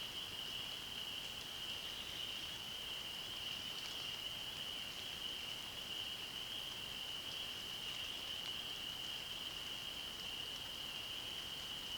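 A chorus of frogs makes a steady, unbroken high-pitched trill, with light rain behind it.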